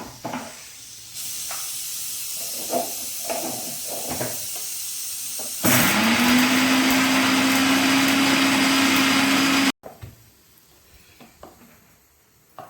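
Electric mixer grinder grinding a spice paste for chicken chops masala. A steady hiss, then the motor spins up to full speed with a steady whine for about four seconds and cuts off suddenly.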